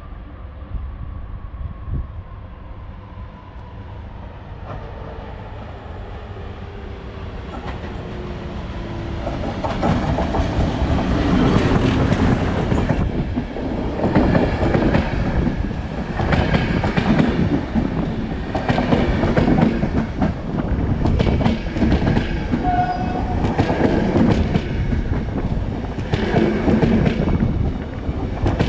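Electric-hauled passenger train approaching and then passing close by. A faint rumble with a slowly falling whine grows louder, and from about ten seconds in comes loud, repeated wheel clatter over the rail joints as the coaches roll past.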